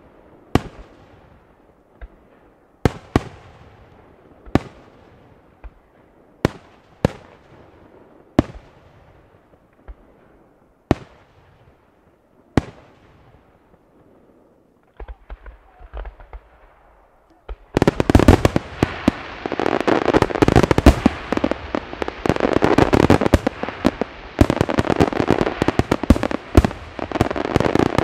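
Aerial firework shells bursting one at a time every second or two, each a sharp bang with an echoing tail. A little past halfway a dense finale barrage of overlapping bangs and crackling starts and keeps going, much louder.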